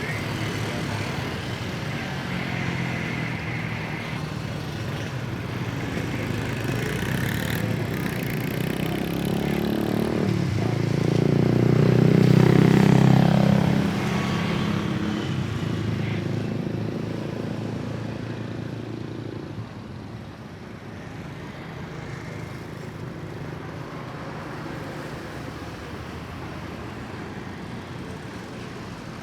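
Jet airliner's engines at takeoff thrust as it passes by, rising to loudest about halfway through with a drop in pitch as it goes past, then slowly fading.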